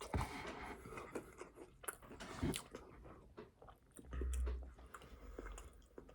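A person chewing and crunching food close to the microphone, with many small clicks and crackles of the mouth and food, and a low thump about four seconds in.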